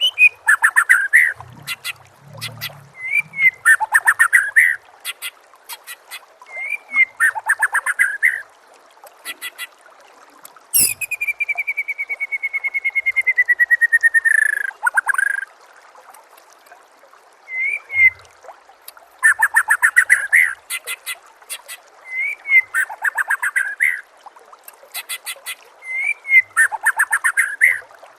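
White-rumped shama (murai batu) singing: short bursts of rapid whistled and chattering phrases every second or two, with one long, slowly falling whistle about eleven seconds in that lasts about four seconds.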